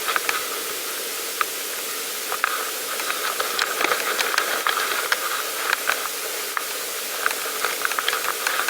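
Steady hiss with scattered irregular clicks and light rattles from a pedal bicycle being ridden.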